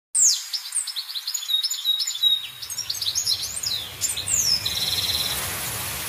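Birds chirping and twittering: many quick high chirps, falling sweeps and short trills, with a low steady hum coming in about two seconds in.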